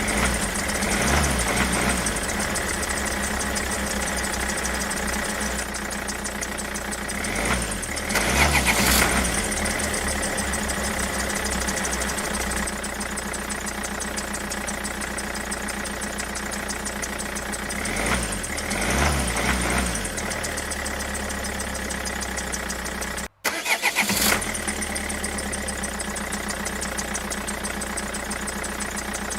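Engine idling steadily, with three louder stretches of chugging: about a second in, around eight seconds and around nineteen seconds. It cuts out for an instant about two-thirds of the way through.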